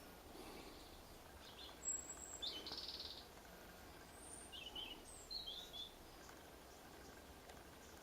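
Faint calls of small birds: a short high chirp about two seconds in, a brief buzzy call just after, then a few more high chirps between about four and six seconds in, over a faint steady hiss.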